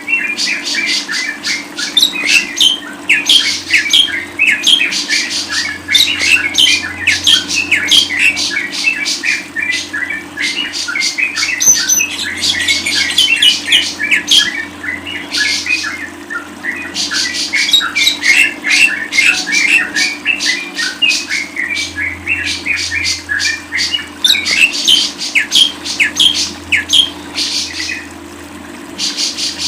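Lovebird chattering: a dense, almost unbroken stream of rapid high chirps and squawks that eases off briefly about halfway through, over a faint steady low hum.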